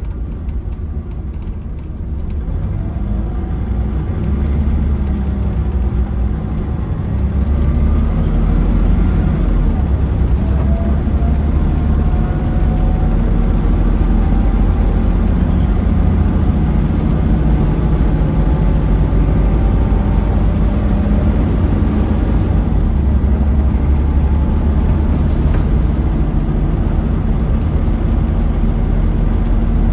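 Onboard a Scania L94UB bus: its Scania DC9 diesel engine pulls away through the ZF automatic gearbox, rising pitch and getting louder over the first several seconds. It then settles into a steady low drone at cruising speed.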